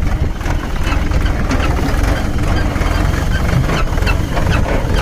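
Mahindra 595 Turbo tractor's diesel engine running steadily, with scattered light clicks and rattles over it.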